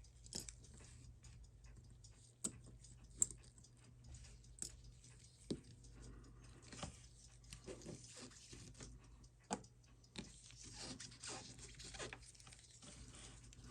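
Faint, irregular small clicks and taps, about a dozen, sharpest a little after 3 seconds in, over a steady low hum.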